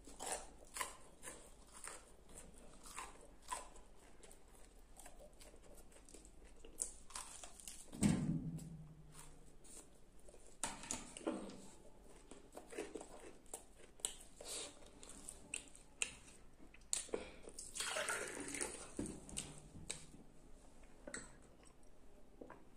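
Close-miked chewing, biting and wet mouth smacks from someone eating a fried gulgule, a sweet fried dough fritter, as a string of small irregular clicks. A louder low thud comes about a third of the way in.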